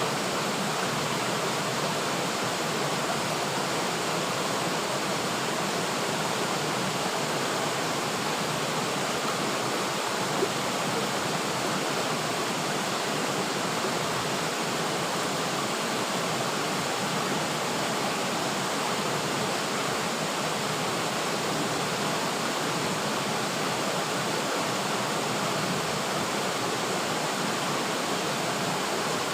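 River water flowing and rushing, a steady even wash of water noise, with one faint tick about ten seconds in.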